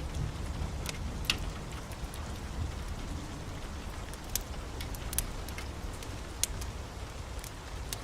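Steady heavy rain with a constant low rumble underneath and a few scattered sharp ticks and pops.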